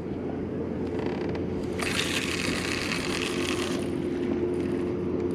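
Fishing reel spool whirring for about two seconds as line pays out on a cast of a heavy catfish rig, over a steady low hum.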